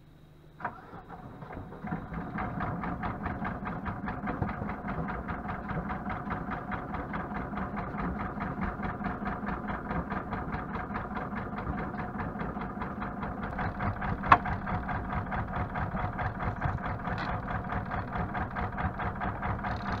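Sailboat's inboard engine coming up about a second in, then running steadily at idle with an even, fast knocking rhythm. A single sharp click about 14 seconds in.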